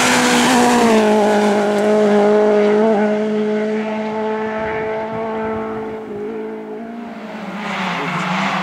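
Lada race car engine held at high, steady revs, its pitch dipping slightly about a second in. It fades over several seconds as the car draws away, then grows louder again near the end as engine noise approaches.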